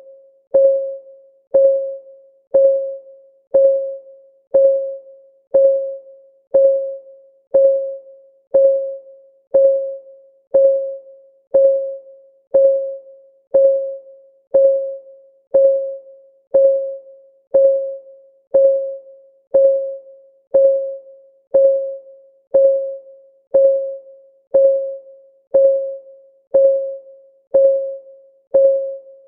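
Countdown timer's clock-ticking sound: a short tick with a clear pitch that fades quickly, repeating steadily about once a second.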